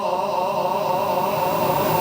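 The lingering echo of a muezzin's sung call to prayer, fading slowly just after his held note cuts off.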